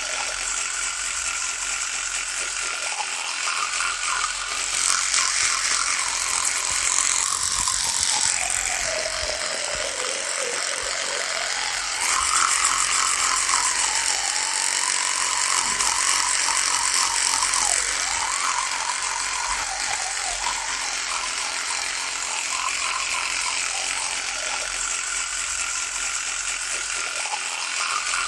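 Electric toothbrush buzzing continuously, its tone dipping in pitch and coming back up about a third of the way in, and running a little louder for several seconds after that.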